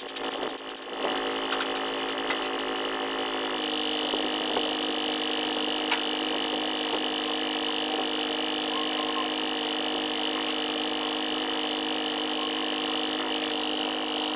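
Steady mechanical hum of running machinery, which shifts a little in pitch about three and a half seconds in. A few rapid tool clicks come in the first second.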